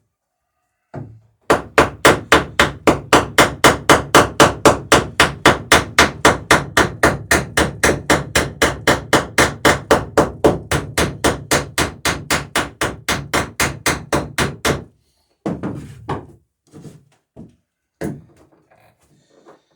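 Rapid, steady hand-hammering, about four to five blows a second for some thirteen seconds, the sort of run used to peen a boat rivet over its washer while fastening the dory's sheer planks. A few scattered knocks follow.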